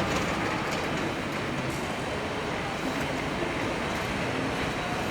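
Steady ambient rumble and hiss of an underground metro station.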